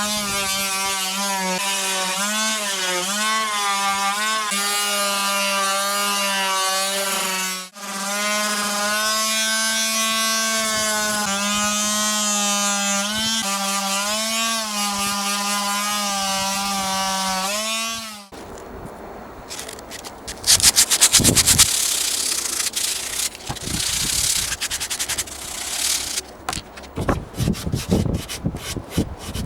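A power tool's motor running steadily on wood, its pitch dipping again and again under load, with a short break partway. Near the end it gives way to rough hand rubbing or scraping on wood, with sharp knocks and clicks.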